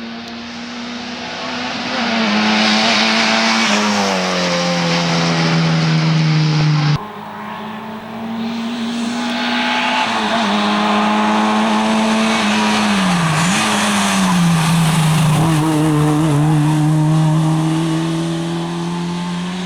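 Lada 2107 rally car's four-cylinder engine running hard at high revs with tyre noise, its pitch mostly held and dipping briefly then recovering near the middle of the second half. The sound cuts abruptly about seven seconds in and picks up again.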